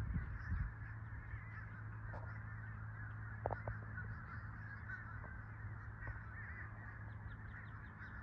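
A large flock of birds calling, many short overlapping calls blending into a continuous chatter, over a steady low hum.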